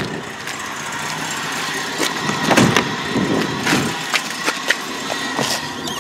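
Moskvich 2140's four-cylinder engine running, still warming up, heard from the cabin, with a series of short clicks and knocks from the door, seat and controls as the driver settles in and moves off.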